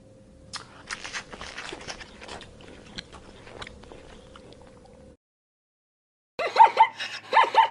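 Crisp crunching and chewing clicks for about four seconds over a faint steady hum, like an animal eating something crunchy. After a second of silence, a run of loud, short, pitched animal calls near the end.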